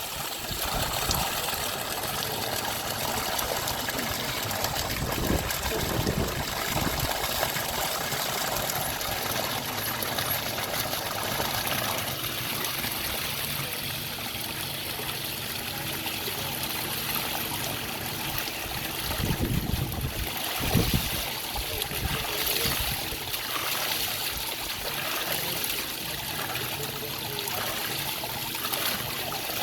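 Water trickling and flowing steadily, like a small stream, with a few low thuds about five seconds in and again near twenty seconds.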